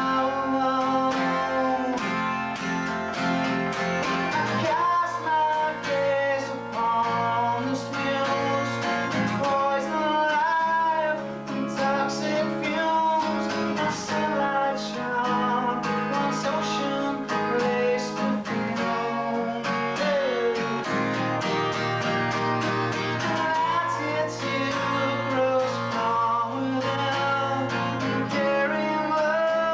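Guitar-led song played live in rehearsal, with a wavering melody line over steady chords, recorded on a basic VHS camcorder microphone.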